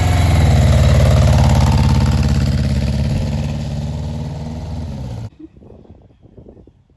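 A vehicle engine running at a steady pitch, loudest about a second in and slowly fading, then cut off abruptly about five seconds in.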